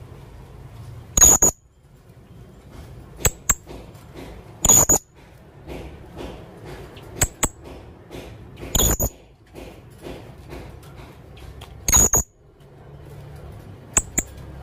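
Blue-crowned hanging parrot (serindit) calling: shrill, high-pitched notes in repeating groups, a quick sharp note or two followed by a longer shriek, about every three to four seconds.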